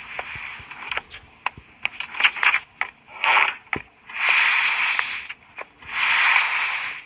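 Floor creaking and crackling: a run of sharp clicks and cracks, then three longer scraping creaks, the last two about a second each.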